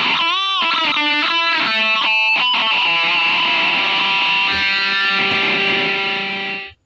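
Distorted electric guitar playing a lead line: a bent note near the start, a quick run of notes, then a long held note that cuts off abruptly near the end.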